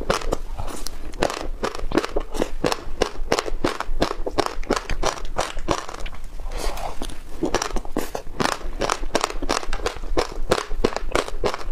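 Close-up chewing of a mouthful of yogurt coated in passionfruit seeds: a steady run of crisp crunches and crackles, several a second, as the seeds break between the teeth.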